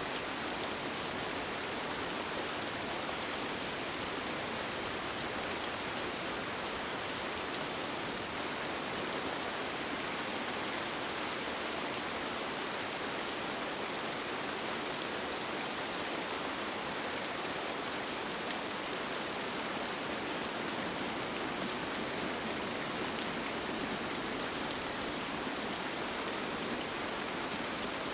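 Steady rain falling, an even hiss of drops with faint patter on a surface, unchanging throughout.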